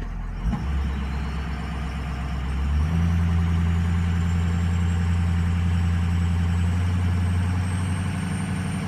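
Eight-cylinder turbo diesel truck engine running steadily, stepping up to a higher, louder speed about three seconds in, with a faint high whine slowly rising in pitch and a brief click near the start. The engine is missing on weak cylinders that the mechanic blames on worn injectors.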